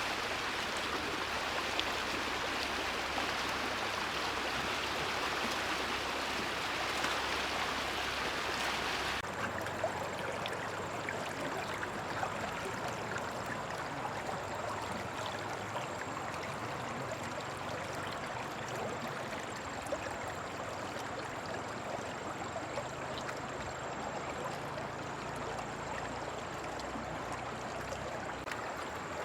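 Flowing water rushing steadily. About nine seconds in, the sound changes abruptly to a thinner rush with a faint steady high whine.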